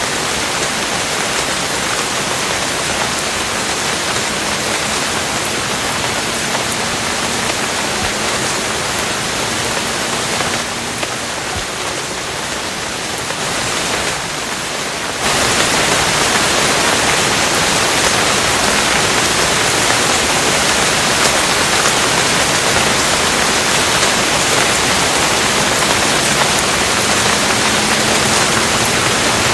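Steady rain falling, a dense even hiss. It turns quieter and duller for a few seconds about eleven seconds in, then comes back louder at about fifteen seconds and stays so.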